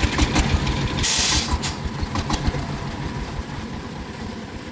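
An engine running with a rough, pulsing low rumble, a short loud hiss about a second in, and the sound fading toward the end.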